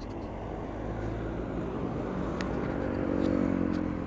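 A motor vehicle's engine passing close on the road, swelling to its loudest about three seconds in and then fading, over steady traffic noise.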